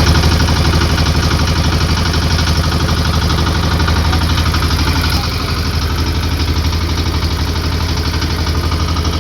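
Engine running steadily close to the microphone, with a fast, even pulsing beat.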